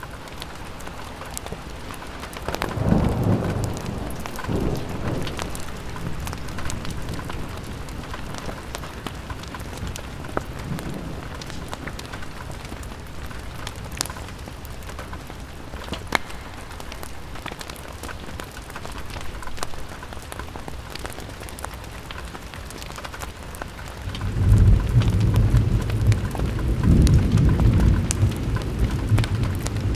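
Steady rain pattering on a window, with a few sharp fireplace crackles. A low rumble of thunder comes about three seconds in, and a longer, louder roll of thunder starts near the end.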